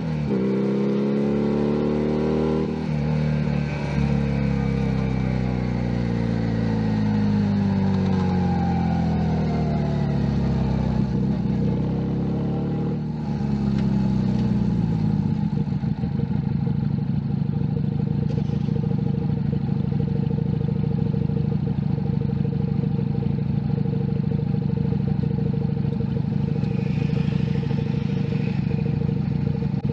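Junak M11 Cafe 125 cc motorcycle's single-cylinder engine pulling up through the revs with a gear change near the start. It then slows with falling pitch, briefly revs again, and settles into a steady idle for the second half.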